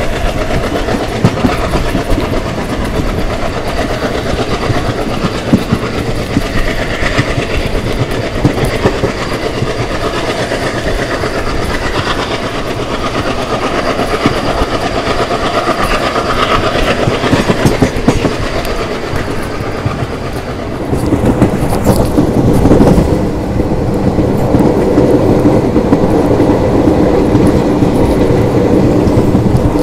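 Diesel-hauled Indian Railways express running at speed, heard from an open coach doorway: a steady rumble of the coaches with the wheels clattering over the rail joints. About twenty seconds in, the sound becomes louder and deeper.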